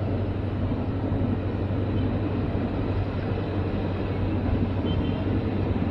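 Passenger train coaches rolling past close by: a steady rumble of steel wheels on the rails.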